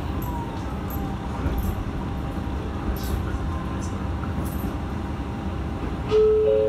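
Cabin of a Matsuura Railway MR-600 diesel railcar: steady running rumble with a few faint clicks. Near the end a louder chime starts in rising steps, the tone that introduces the onboard announcement.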